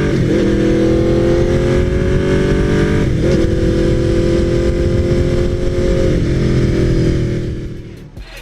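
Aprilia RSV4R's V4 engine running through an aftermarket GPR Thunder Slash exhaust on the move. The engine note holds fairly steady between brief breaks about every three seconds, then fades away near the end.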